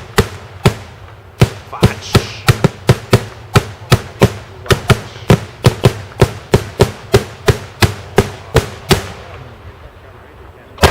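Daytime fireworks going off close by: a rapid, uneven string of loud bangs, several a second, that dies away about nine seconds in.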